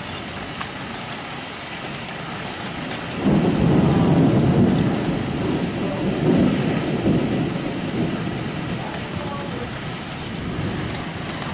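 Steady rain falling, with a thunder rumble that breaks in suddenly about three seconds in. The thunder is loudest for a couple of seconds, then rolls on and fades away over several seconds.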